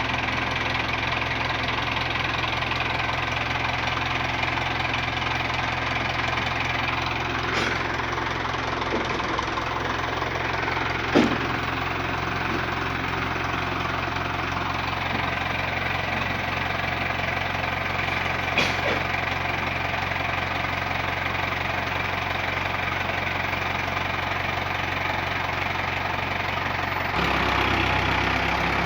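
An engine running steadily, with three sharp knocks or clangs along the way, the loudest about eleven seconds in. Near the end the engine gets louder and its low note changes, as if taking on load.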